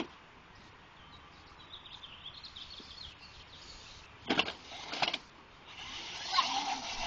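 Ride-on toy truck rolling down a driveway, its wheels and small motor making a low noise, with two brief louder scraping bursts about four and five seconds in and a louder rolling stretch near the end. Faint bird chirps early on.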